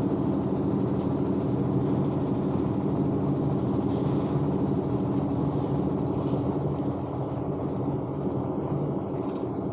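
A heavy engine running steadily with a deep, even drone, easing a little in loudness near the end.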